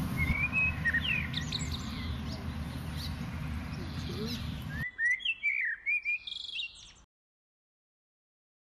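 Small birds chirping in quick, rapid notes, over a steady low rumble for the first five seconds or so. The sound cuts off to silence about seven seconds in.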